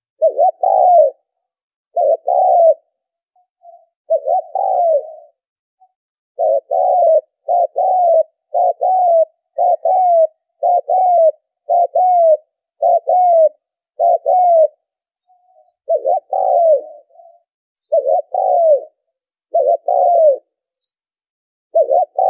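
Spotted dove cooing: a long run of short coos, each dipping in pitch. They come about one and a half a second through the middle, with brief pauses between groups early and late.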